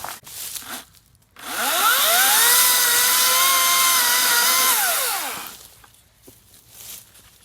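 Hart 40-volt cordless electric chainsaw triggered once: its motor whines up to speed, holds a steady pitch for about three seconds, then winds down and stops.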